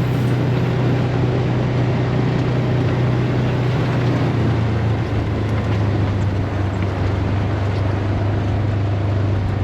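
Polaris Ranger XP side-by-side UTV running steadily along a dirt trail, engine and drivetrain noise with tyre rumble; the engine note drops a little about halfway through as it slows.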